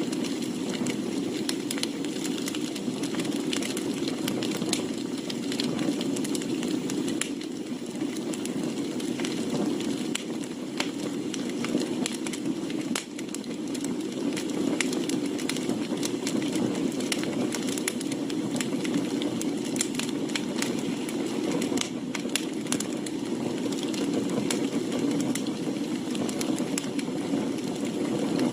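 Wood campfire burning, with irregular crackles and pops over a steady low rush of flame.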